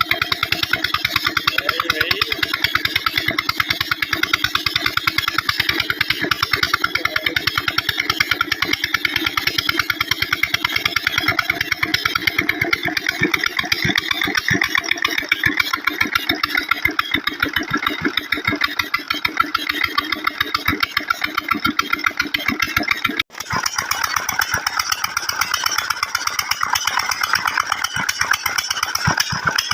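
Old Petter diesel engine driving a tube well, running steadily with a rapid, even beat of firing strokes. The sound cuts out for an instant about three quarters of the way through, then the engine carries on.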